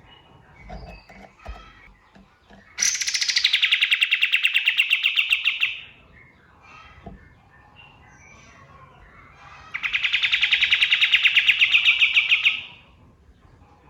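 Kapas tembak songbird giving two long, rapid trills, each about three seconds long: one a few seconds in, the second about ten seconds in, with fainter bird chirps between.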